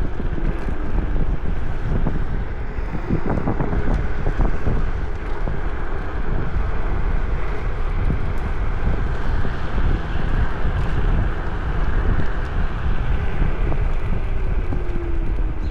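Wind buffeting a chest-mounted action camera's microphone while riding an electric scooter, over steady tyre and road rumble. A faint motor whine slides down in pitch near the end.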